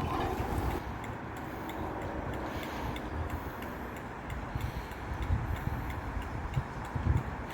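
Train running with a steady low rumble and a regular light clicking of wheels over rail joints.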